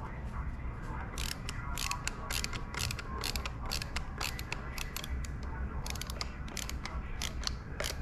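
Screws being worked with a hand screwdriver in a plastic joystick housing. Quick, irregular runs of small mechanical clicks, ratchet-like, come in two spells: about a second in, and again near the end.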